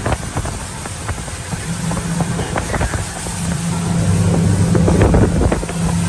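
A boat's engine running with a steady low hum, with wind buffeting the microphone and scattered short knocks. It grows somewhat louder in the second half.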